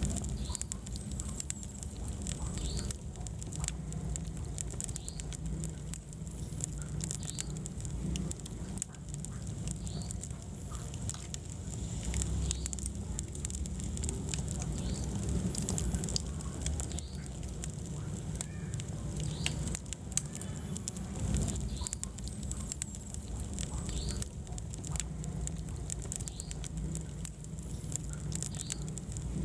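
Wood fire burning in a fireplace: a steady low rumble of flame with many sharp crackles and pops throughout.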